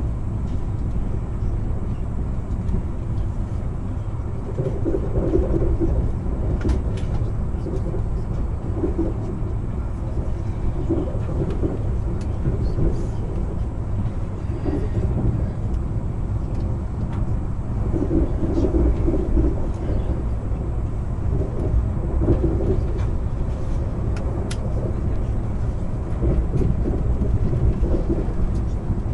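Sapsan high-speed electric train running at speed, heard from inside the passenger car as a steady low rumble of wheels on rails.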